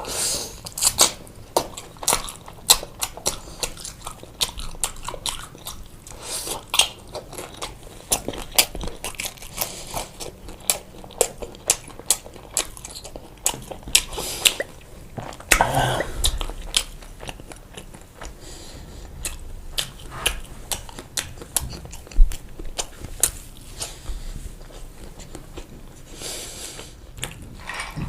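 A person chewing and biting pizza close to the microphone, with many quick, sharp, crunchy mouth clicks and a louder stretch of biting about halfway through.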